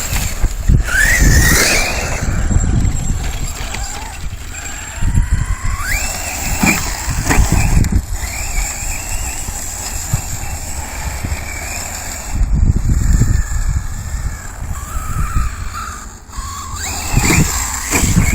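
R/C short course trucks' motors whining, the pitch rising and falling over and over as the trucks speed up and slow down, over a steady low rumble.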